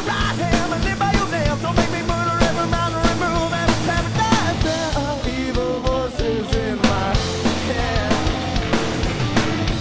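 A rock band playing a song at a fast, punk-rock pace, with steady drum-kit strikes under guitars and a wavering melody line.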